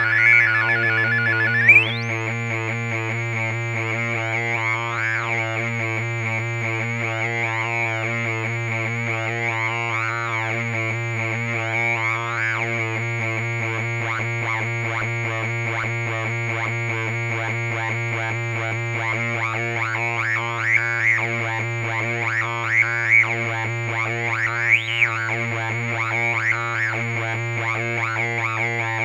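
Weird Sound Generator DIY analog synth droning: a steady low hum with a dense stack of tones and a high whistle above, with wobbling chirps sweeping up and down through it. About two seconds in the sound shifts and a thin high whine joins. Sharper blips stand out in the second half.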